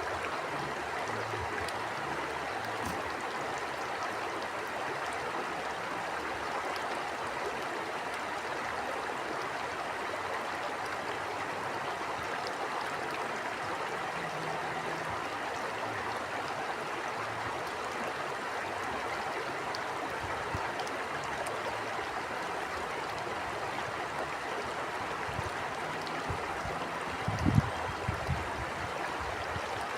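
A stream flowing steadily, an even rush of running water. Near the end come a few low thumps, the loudest moments.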